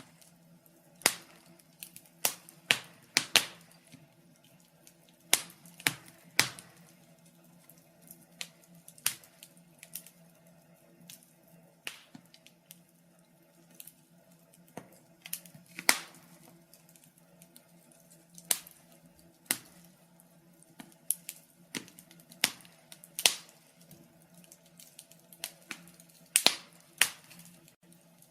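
A fire crackling: irregular sharp pops and snaps, sometimes in quick clusters, a few far louder than the rest, over a faint steady low hum.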